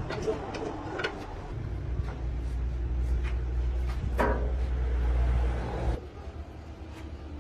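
A steady low mechanical hum that cuts off suddenly about six seconds in, with a few sharp metallic knocks, the loudest about four seconds in, ringing briefly.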